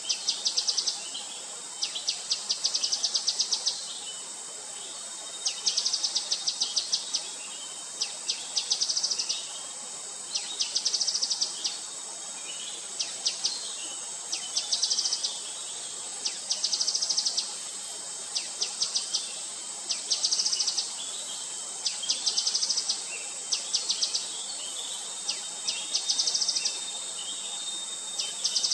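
Gray-headed canary-flycatcher calling: short bursts of rapid high notes, each under two seconds, repeated every second or two, over a steady high-pitched background hiss.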